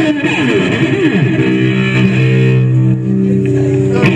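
Live rock band playing loud, amplified string instruments. Notes slide up and down in pitch for about the first second and a half, then steady held notes ring over a strong low bass.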